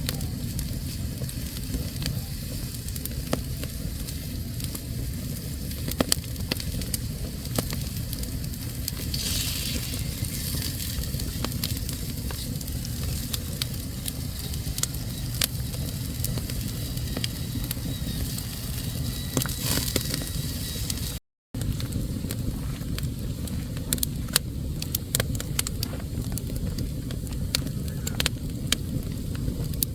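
Wood fire burning in a fireplace: a steady low rumble of flames with frequent sharp crackles and pops. The sound cuts out completely for a split second about two-thirds of the way through.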